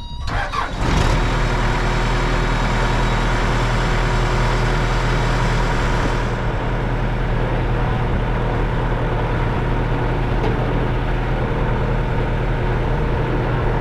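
An engine starts sounding about a second in and runs steadily at idle, with a constant low hum.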